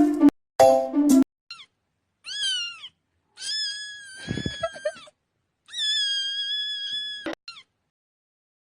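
A cat meowing in a series of high calls: a short one, a rising-and-falling one, then two long held meows. A short bit of music ends about a second in, before the meows.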